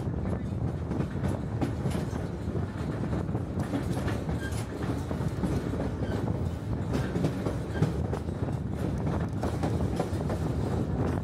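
Narrow-gauge White Pass & Yukon Route passenger train rolling along steadily: a continuous low rumble with the wheels clicking over the rail joints at irregular intervals.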